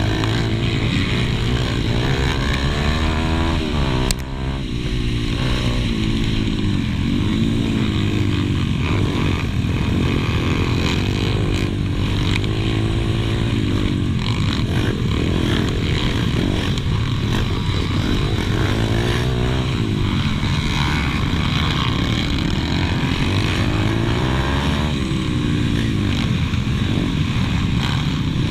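Pit bike engine heard from on board while racing, revving up and falling back again and again as the rider works the throttle and gears, with a brief drop in level about four seconds in.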